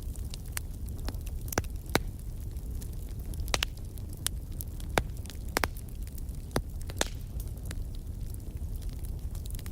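Firewood burning, with sharp, irregular crackles and pops over a steady low rumble.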